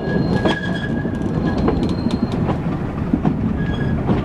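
Metre-gauge passenger coaches running on the track, heard from aboard: a steady low rumble with the clickety-clack of wheels over rail joints. A thin high squeal of wheels on the curve is heard over the first two seconds and again briefly near the end.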